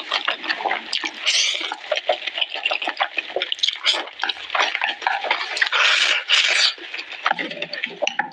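Close-miked eating sounds: steady wet chewing and smacking of black bean noodles with pork, with longer slurps about a second in and again around six seconds in.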